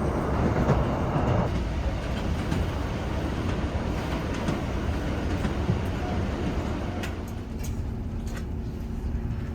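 Diesel passenger train running on the West Highland Line, a steady low rumble that eases off about a second and a half in. A few light clicks come near the end.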